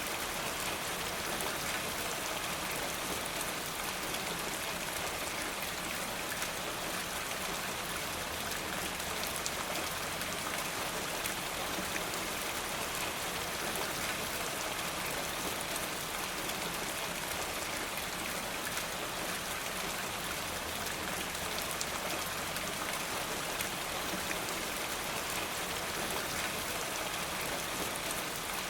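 Steady rain falling, an even hiss with many small ticks of drops throughout.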